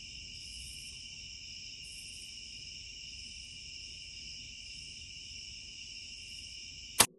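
A night chorus of crickets keeps up a steady high trill. Near the end there is one sharp, loud click, and then the sound cuts off abruptly.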